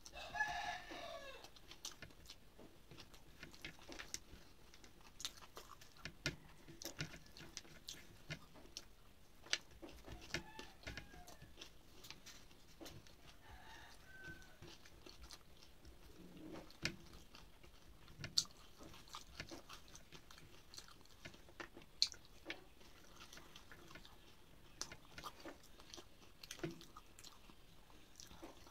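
Close-up eating sounds: chewing with scattered mouth clicks and smacks as rice is mixed and eaten by hand from a plate. A rooster crows once right at the start, a falling call that is the loudest sound here.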